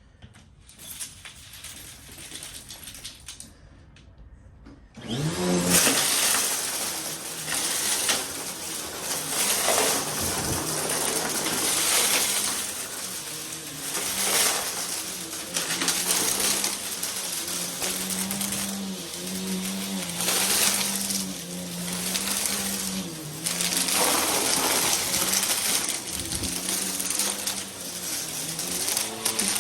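Vacuum cleaner switched on about five seconds in, its motor spinning up with a rising whine, then running steadily. The suction noise swells and eases about every two seconds as it is pushed back and forth in quick strokes.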